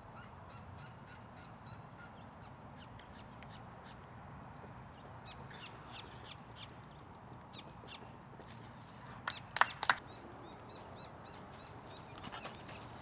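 Birds calling with many short high chirps over a quiet outdoor background, broken a little over nine seconds in by a quick cluster of three sharp cracks, the loudest sound.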